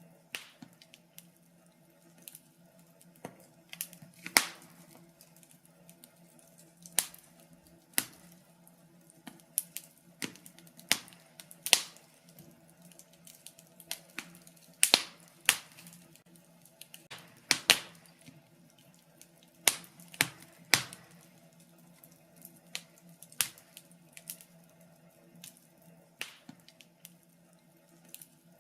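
Wood fire in a fireplace crackling: irregular sharp pops and snaps, a few every second or two and some much louder than others, over a faint steady low hum.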